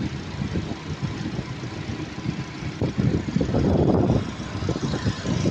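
Car engine idling, with a rough low rumble that swells louder for about a second midway through.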